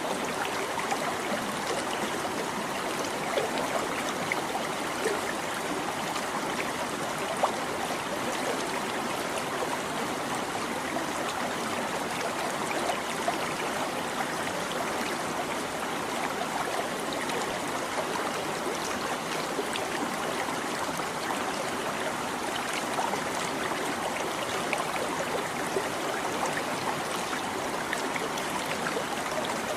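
Shallow stream babbling and trickling over stones, a steady rush of water flecked with small splashes and gurgles.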